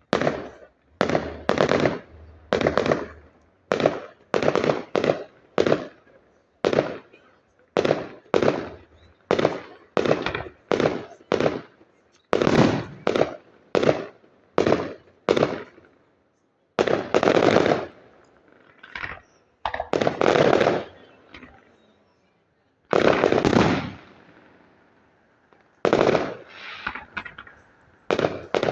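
Fireworks display: a quick run of loud bangs about one a second. After about sixteen seconds come fewer, longer blasts that die away more slowly.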